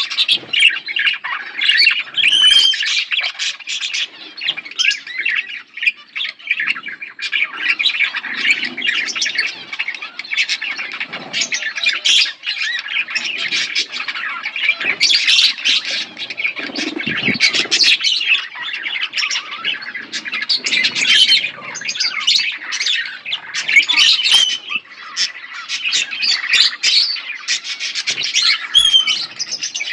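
A flock of budgerigars chattering and chirping continuously, many birds at once in a dense, unbroken mix of short chirps and squawks.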